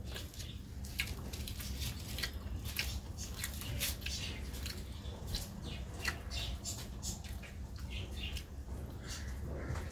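A person chewing food close to the microphone: irregular wet mouth clicks and smacks, several a second, over a steady low hum.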